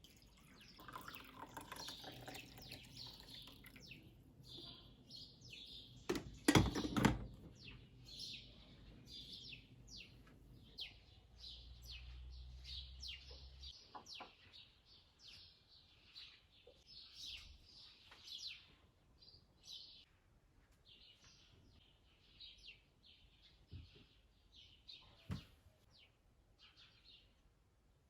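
Small birds chirping repeatedly. About six and a half seconds in, a few sharp loud knocks, the loudest sounds here.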